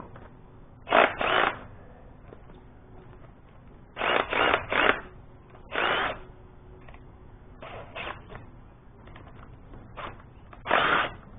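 Hand-tool work on metal: a series of short, irregular scraping and rattling bursts, some in quick groups of two or three, each well under a second.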